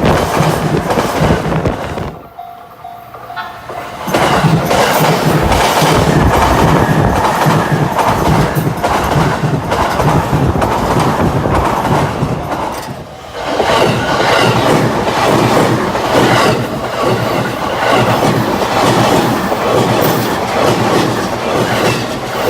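Chuo Line electric train running past close by, its wheels clattering steadily over the rail joints, with two short lulls in the noise, about two seconds in and again about thirteen seconds in.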